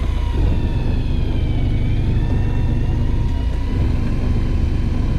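Fishing boat's engine running steadily: a loud low rumble with a faint whine above it that slowly wavers in pitch.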